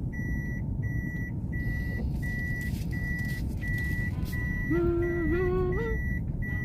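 A car's warning beeper sounding a steady high beep over and over, about one and a half beeps a second, over the low rumble of the running car.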